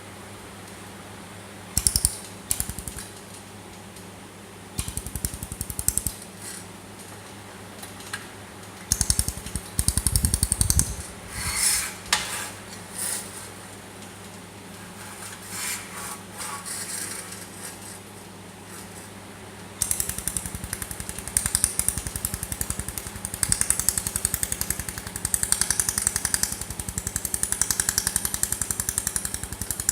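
Pulsed laser welding machine firing: rapid trains of sharp ticking pulses, first in short bursts, then continuously from about two-thirds of the way through, over a steady electrical hum.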